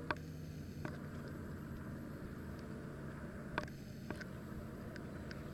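Kayak being paddled across open water: a steady low rumble of water and wind, with a few light clicks and knocks from the paddle.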